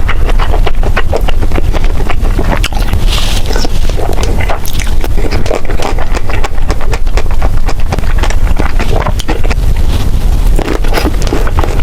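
Close-miked eating of jjajangmyeon noodles and tangsuyuk: continuous chewing with many small wet clicks and smacks, and a steady low rumble on the microphone.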